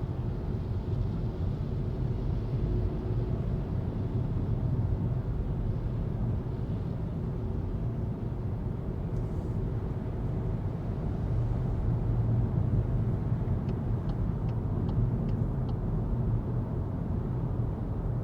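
Steady in-cabin driving noise of a 2025 Volkswagen Golf 2.0 TDI diesel on the move: a continuous low rumble of tyres, road and engine. A few faint ticks come about three-quarters of the way through.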